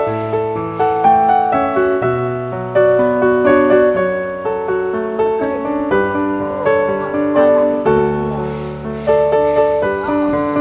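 Background piano music: a melody of notes that ring and fade, one after another.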